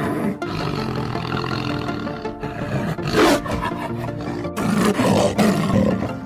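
Leopard roaring: one loud call about three seconds in, then a run of calls near the end, over background music.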